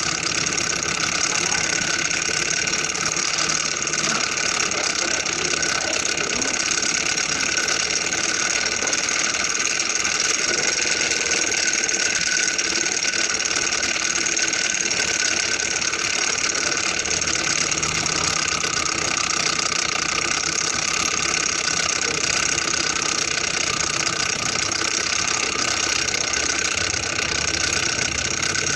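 Small fire-heated Stirling engine running steadily, a continuous fast mechanical sound with no change in speed.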